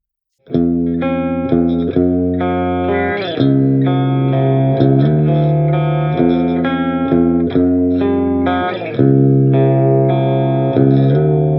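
Overdriven electric guitar, a 1989 Orville by Gibson ES-335 played through the Olinthus Cicada, a Tube Screamer-style overdrive, and an amp simulator, playing a rock riff of chords that change about every half second. A last chord is held and rings out near the end.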